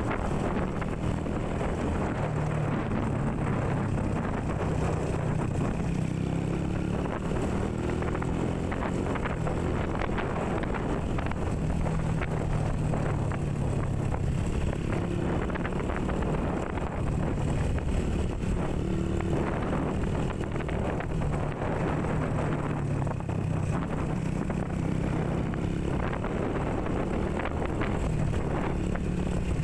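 Small 125 cc motorcycle engine running under way, its pitch shifting a little with the throttle, with wind buffeting the microphone.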